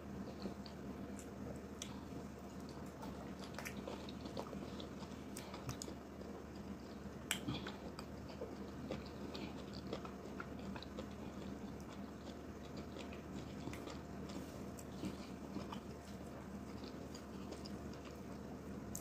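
Close-miked mouth sounds of eating yellow garri with slimy ogbono soup: chewing with scattered small wet clicks, one sharper click about seven seconds in.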